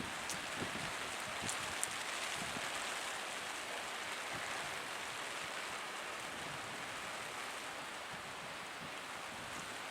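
Steady rain falling, an even hiss, with a few sharp ticks in the first two seconds.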